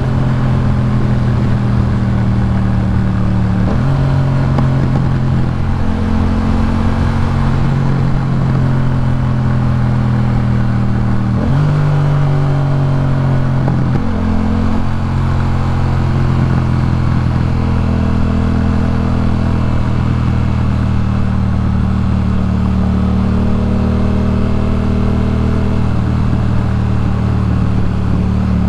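Yamaha MT-07's parallel-twin engine through a Jeskap K4 full exhaust system, running at steady riding revs. Its pitch shifts briefly a few times, about four seconds in and again about halfway through.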